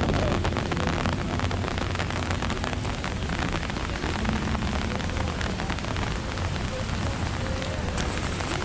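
Steady rain, with many fine drops striking an umbrella held overhead in a dense, continuous patter.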